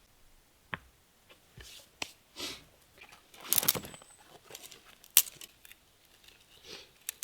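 Rocks being handled to enlarge a fire pit: scattered sharp clacks of stone on stone, mixed with short scraping rustles. The loudest scrape comes in the middle.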